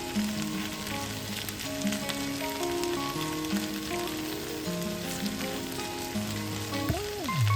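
Food frying and sizzling in a pan, a steady crackle, under background music. A short tone slides downward near the end.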